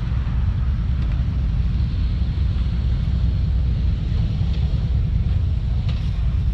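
Cars driving past with a steady low rumble, and wind buffeting the microphone.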